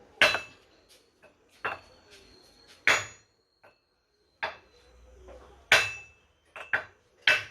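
Hammer blows driving a new bearing into an AC compressor pulley through a 2x4 wooden block, to seat it evenly. About eight uneven strikes, some leaving a brief metallic ring.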